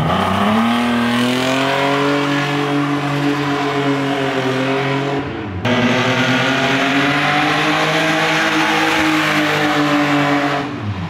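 Toyota Cressida's engine revving hard and held at high revs while the car is driven with its engine oil drained. About halfway through the revs drop for an instant, climb back and hold high again, then fall away near the end.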